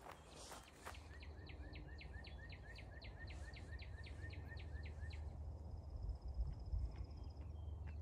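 A songbird singing a quick run of evenly spaced, repeated slurred notes, about four a second, for some four seconds, followed by a thin high steady note. A low rumble sits under it throughout.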